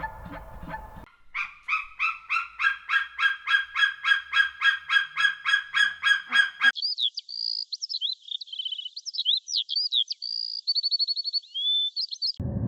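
Animal calls: a rapid run of evenly repeated honking calls, about four a second, for about five seconds, then a change to a different animal's high, varied chirps and whistles that stop suddenly near the end.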